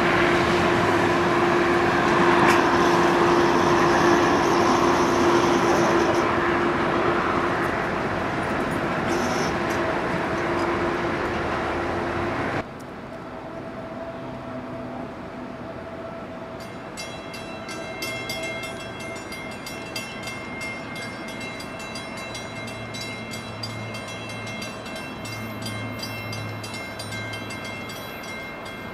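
NJ Transit commuter train pulling away, its rumble and a steady hum fading as it recedes. About twelve seconds in the sound cuts to a much quieter steady hum with faint tones.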